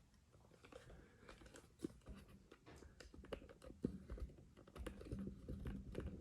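Faint scattered clicks, taps and light knocks of a camera being handled and positioned, with the two sharpest knocks about two and four seconds in.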